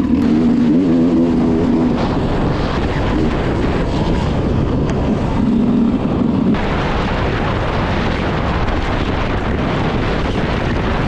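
Enduro motorcycle engine revving with its pitch rising and falling, fading after about two seconds into steady wind noise on the microphone; the engine note comes back briefly around six seconds in.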